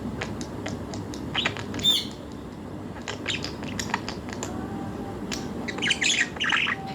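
Budgerigars chirping and squawking in short, scattered calls, loudest about two seconds in and again near the end.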